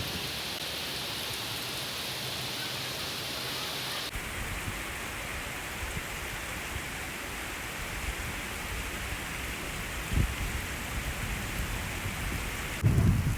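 Heavy rain falling steadily, an even hiss of rain on hard surfaces. The sound shifts abruptly about four seconds in and again near the end, with low rumbles of wind on the microphone in the later part.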